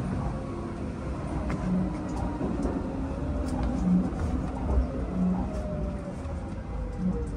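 Inside a Hanshin 5001-series commuter train, a steady low running rumble with a faint whine from the traction equipment that slowly falls in pitch, as the train slows into the station.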